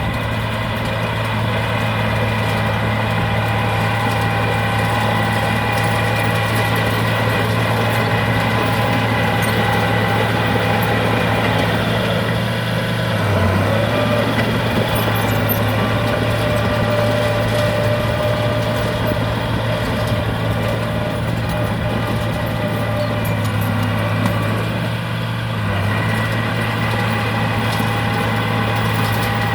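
Heavy diesel machinery engine running steadily, with a steady low hum and a whine above it that shift briefly twice.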